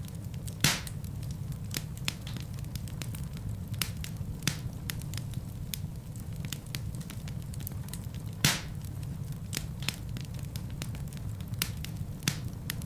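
Wood fire burning in a fireplace: a steady low rumble of flames with irregular crackles, and two louder pops, about a second in and again past the middle.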